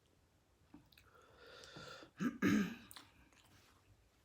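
A woman clears her throat once, about two seconds in, after a faint breath; the spicy food is catching in her throat.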